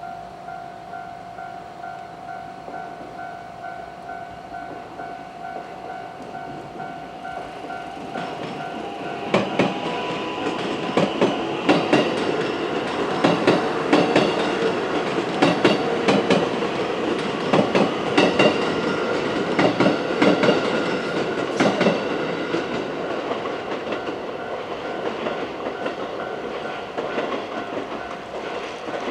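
Japanese level-crossing warning bell ringing with a steady repeating tone. A JR West 223 series electric multiple unit then passes over the crossing, from about a third of the way in, with its wheels clacking in quick bunches over the rail joints. The train is loudest in the middle and fades toward the end.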